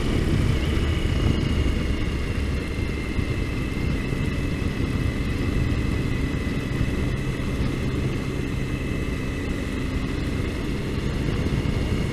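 Triumph Tiger motorcycle being ridden at a steady pace, its engine running evenly with no changes in speed.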